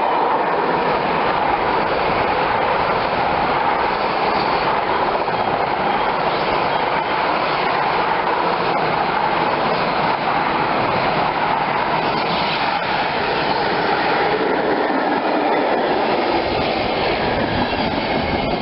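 A train rolling past on the track, with a steady, unbroken noise of wheels on rails throughout.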